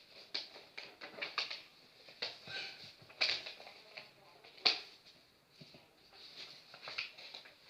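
Sheet of paper being folded and creased by hand: irregular crinkles and rustles, with the two sharpest creases about three and a half and four and a half seconds in.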